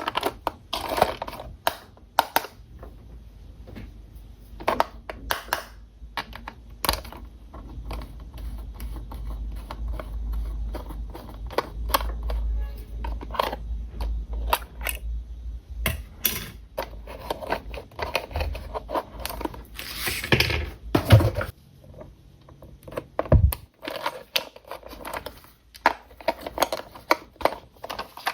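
Hands handling a 1:20-scale remote-control toy car and its packaging: a run of irregular clicks, taps and scrapes, with a low rumble through the middle and a brief scraping rush about twenty seconds in.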